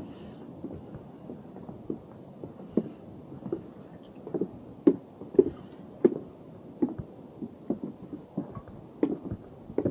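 Footsteps of hikers walking steadily on a trail, about three soft steps every two seconds, louder from about four seconds in.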